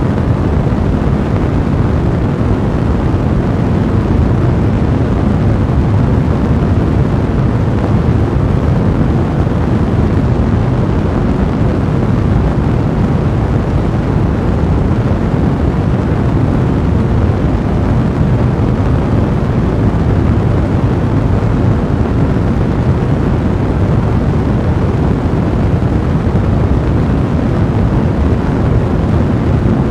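A fire blazing: a steady, dense low rumble of flame noise, with no separate crackles standing out.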